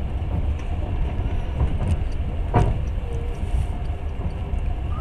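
Passenger train running along the track, heard from inside the carriage: a steady low rumble, with a single sharp knock about two and a half seconds in.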